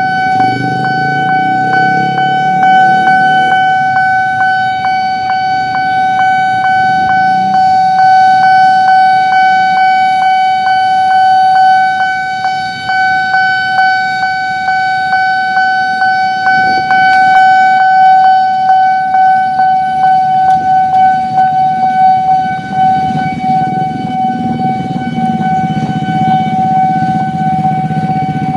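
Railway level crossing warning alarm sounding a steady, unbroken high tone with a regular ticking through it, over road traffic.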